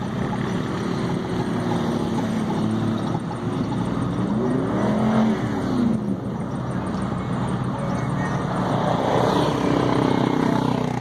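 Truck engines running, with one revving up and back down about four to six seconds in over a steady engine drone.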